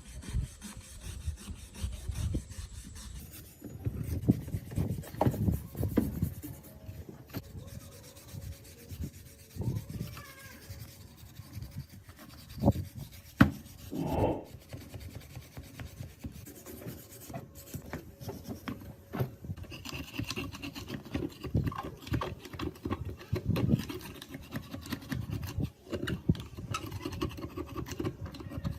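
Irregular rubbing and scraping strokes of hand work on a metal steering part, with a few sharp knocks about halfway through.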